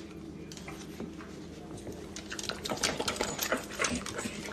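A dog making rapid small clicking noises, getting busier and louder over the last two seconds.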